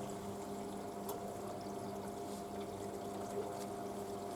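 Hoover A3308 Computer Control 1100 washing machine filling with water early in a wash: water running into the drum over a steady low hum.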